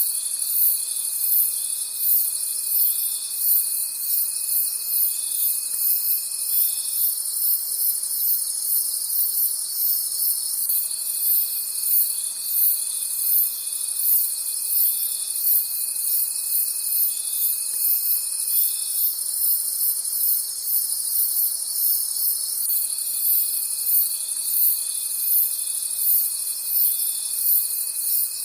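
Crickets chirping at night in a dense, very high-pitched chorus that pulses about twice a second. A lower, steady trill runs for several seconds at a time, breaking off and resuming twice.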